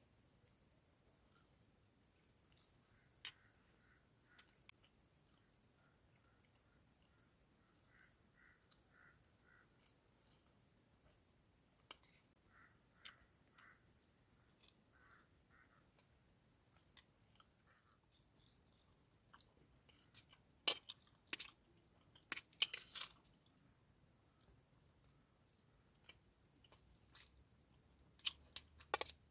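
Insect chirping in a high, rapid, even pulse, with a few short, lower chirps in between. A cluster of sharp clicks or crunches comes about two-thirds of the way through.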